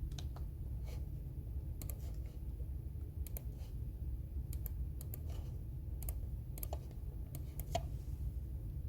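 Computer keyboard being typed on: scattered, irregular keystrokes with pauses between them, over a steady low hum.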